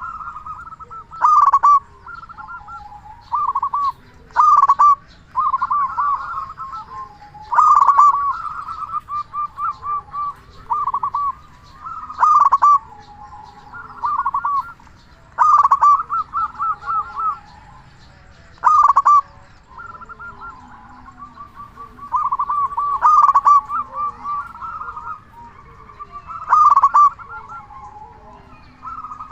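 Zebra dove (perkutut) cooing: repeated runs of quick staccato coos, with a louder call about every three to four seconds.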